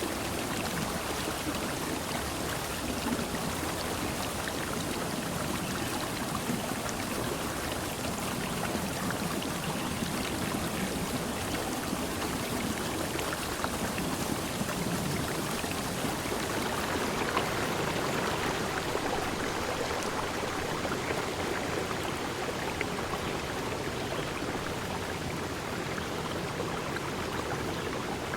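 Steady rushing and splashing of running water, with no birds or other calls standing out; the sound turns brighter a little past the middle.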